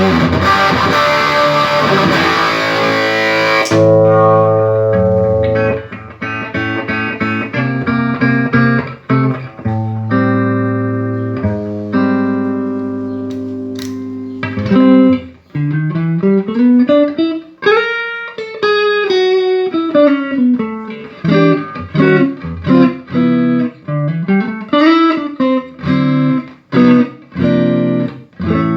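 Electric guitar played through a Peavey Triple XXX tube amplifier in a sound test after repair, its failed preamp capacitors replaced and the amp rebiased. A thick, bright chord rings for the first few seconds and stops suddenly, then come separate notes and chords with several slow string bends rising and falling in pitch.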